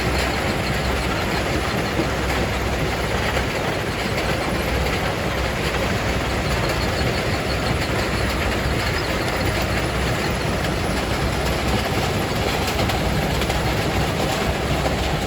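Jaw crusher running steadily, a dense mechanical rumble with continuous rattling and clattering of rock.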